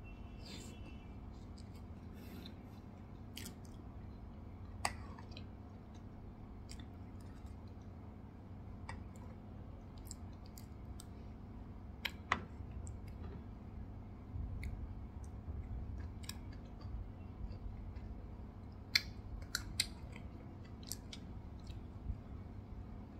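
Chewing a mouthful of soft strawberry Swiss roll and cream, with scattered sharp wet mouth clicks.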